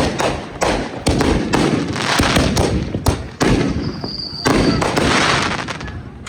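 Consumer fireworks going off: a rapid series of bangs with crackling between them, and a brief high whistle about four seconds in that falls slightly in pitch.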